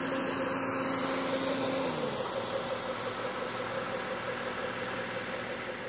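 A car engine idling with a steady hum; its pitch drops a little about two seconds in.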